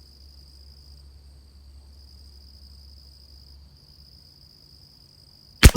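Insects trill steadily in a high, continuous buzz that pauses briefly now and then. Near the end a single .22 LR rifle shot from a Christensen Arms Ranger cracks out, much the loudest sound, with a short echo.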